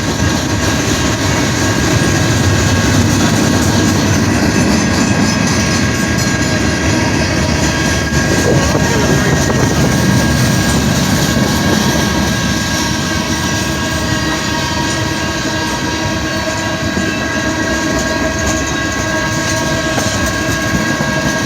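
CSX train rolling past on the rails, a loud, steady noise of the cars running by.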